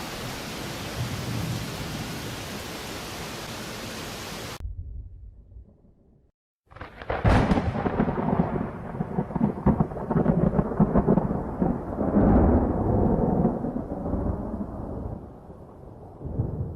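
Steady rain hiss that cuts off abruptly about four and a half seconds in; after a brief near-silence, a lightning strike's sudden thunder crack, followed by a long rolling rumble of thunder that fades over several seconds.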